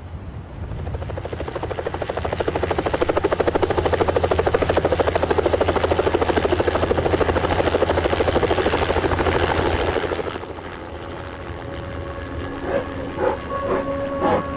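Helicopter running overhead, its rotor making a fast, even chop that grows louder over the first few seconds and cuts off abruptly about ten seconds in.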